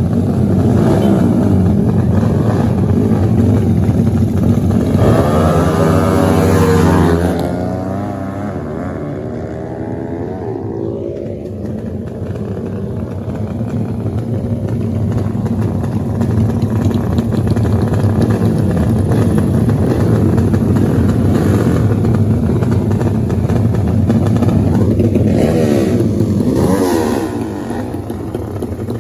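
Dirt-bike engines running hard, with the pitch sweeping up and down as the throttle opens and closes, about five to seven seconds in and again near the end; it is softer for a few seconds after the first sweep.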